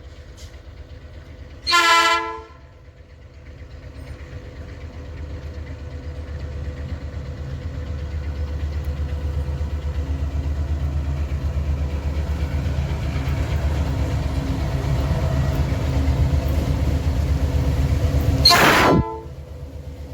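Diesel-electric freight locomotives (GM/EMD G22 and GT22 types) approaching, their low engine rumble growing steadily louder, with two short horn blasts: one about two seconds in and one near the end.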